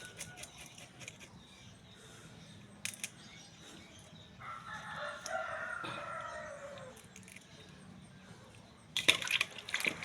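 A rooster crowing once, a single drawn-out call of about two and a half seconds near the middle, falling in pitch at the end. A few sharp clicks come near the end.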